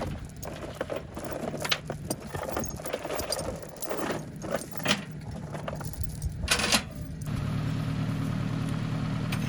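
A few sharp clicks and knocks, then an engine running steadily from about seven seconds in.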